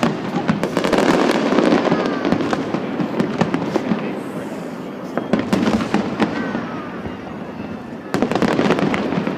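Fireworks display: a dense, continuous string of bangs and crackles. It grows louder about a second in and again near the end.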